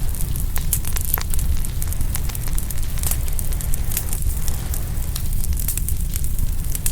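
Open wood fire crackling, with many sharp pops and snaps, over a steady low rumble.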